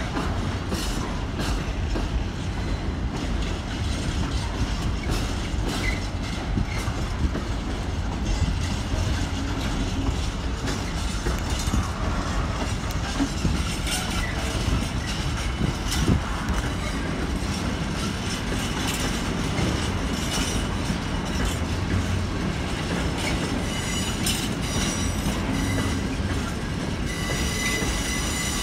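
Wagons of a long, lightly loaded container freight train rolling past: a steady rumble of wheels with rapid clicks over the rail joints. Near the end a thin, high wheel squeal comes in.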